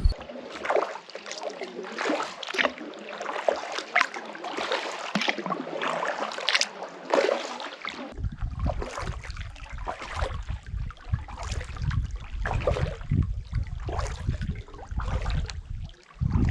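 Kayak paddles dipping and splashing in lake water, with repeated, uneven paddle-stroke splashes and water trickling off the blades. About halfway through, a low rumble joins in.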